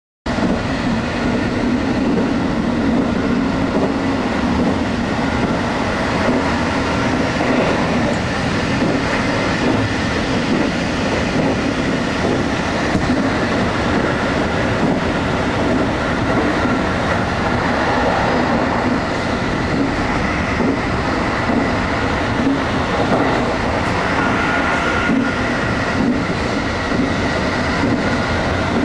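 A train running at speed, heard from inside near its front window: steady wheel-and-rail running noise with a low hum. It starts abruptly about a third of a second in.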